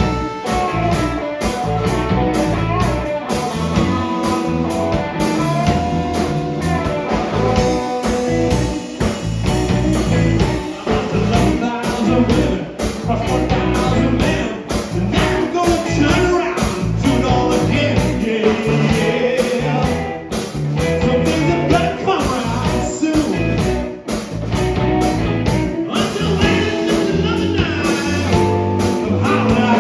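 Blues-rock band playing: electric guitar lead lines bending in pitch over bass and a steady drum beat.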